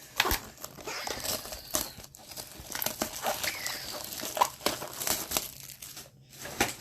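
Crinkling and tearing of trading-card pack wrappers and packaging being handled and opened, an irregular run of crackles.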